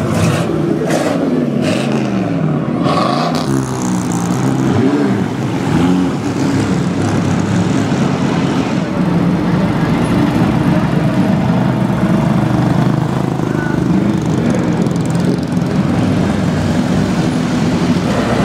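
Engines of vintage cars running as the cars creep past at low speed, revving up and down a few times in the first few seconds, then settling into a steady low-speed drone.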